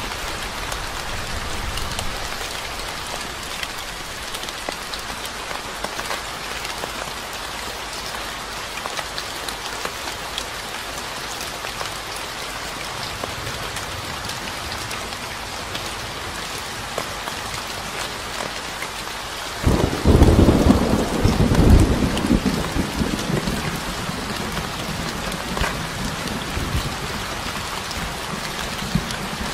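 Steady rain falling, an even hiss of drops. About two-thirds of the way in, a sudden low rumble of thunder breaks in, loudest for a couple of seconds, then fades back under the rain.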